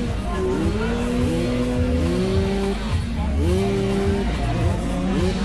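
Several two-wheeled motocross dirt bikes racing, their engines revving up and holding in turn, with overlapping rising pitches from different bikes.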